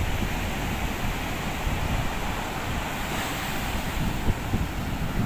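Sea surf washing on a beach as a steady hiss, with wind buffeting the microphone in irregular low rumbles.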